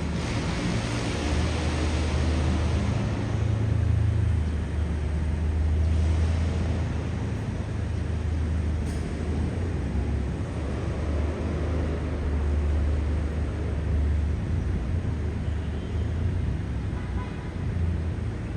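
Road traffic: a steady low engine rumble from passing vehicles under a constant wash of tyre and street noise, swelling and easing as vehicles go by.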